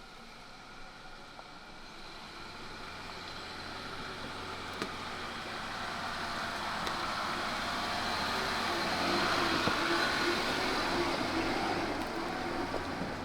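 Jeep Gladiator Rubicon driving on a dirt trail: engine and tyre noise grow steadily louder as it approaches, are loudest about ten seconds in, then begin to fade.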